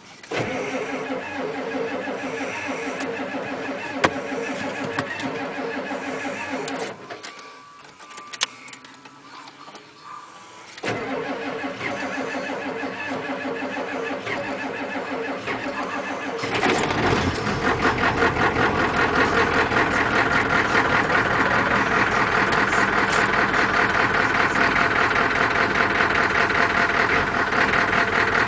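The starter cranks a cold 1989 Ford F250's 7.3-litre IDI V8 diesel twice: once for about seven seconds, then again after a few-second pause. On the second try the engine catches about 16 seconds in and runs loud and rough with diesel clatter. It is a cold start at 21°F with no block heater.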